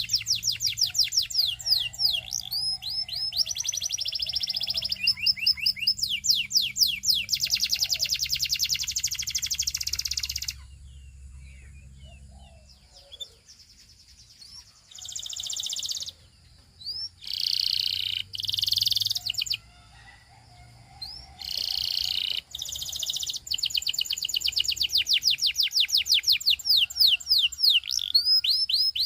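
Canary singing: long, fast trills of quickly repeated falling notes, broken about a third of the way in by a few seconds of quiet and then short separate phrases, before the rapid trilling resumes for the last several seconds.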